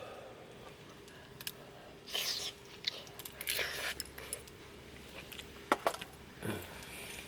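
Tableware being handled: a few short clinks and knocks of utensils against dishes, with soft rustling scrapes between them.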